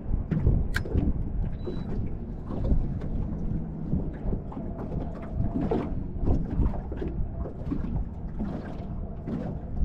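Wind rumbling on the microphone, with scattered small knocks and clicks from handling and gear, and one sharp click about a second in.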